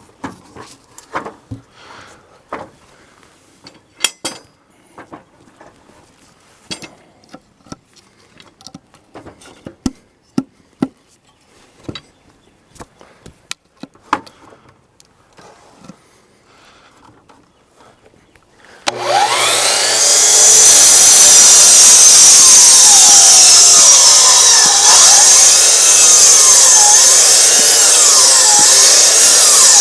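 Scattered light knocks and clicks, then about two-thirds of the way in a loud power tool starts cutting and runs steadily, its pitch wavering up and down.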